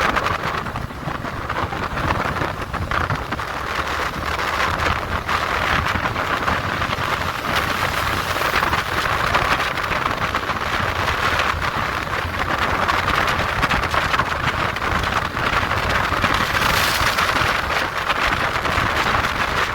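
Steady rushing wind and road noise from a moving motorcycle, with wind buffeting the microphone.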